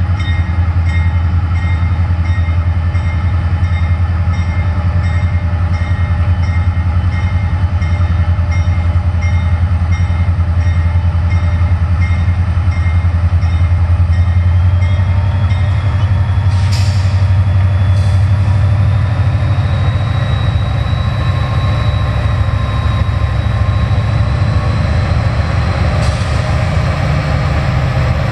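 Freight train of five diesel locomotives pulling away from a stop and accelerating past a grade crossing: a steady deep engine rumble, with a bell dinging in an even rhythm for about the first half. In the second half a whine slowly rises as the train picks up speed, and there are a few sharp clanks.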